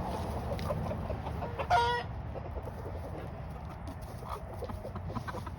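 Hens clucking, with one loud squawk about two seconds in.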